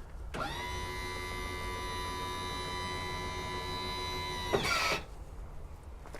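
Electro-hydraulic tail lift pump motor running with a steady whine for about four seconds, spinning up at the start and winding down at the stop. A short hissing clatter follows as the lift reaches its stop.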